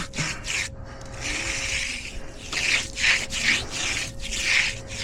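Hand concrete edger scraping along the edge of fresh concrete, reshaping the edge: a few quick rasping strokes, then longer sweeps.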